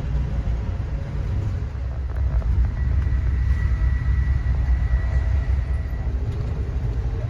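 Passenger train running along the track: a steady low rumble, with a faint thin whine in the middle of the stretch.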